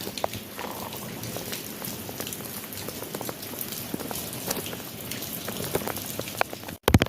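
Rain falling steadily: an even hiss dotted with the ticks of single drops. Near the end it cuts out abruptly, and a run of loud sharp taps begins.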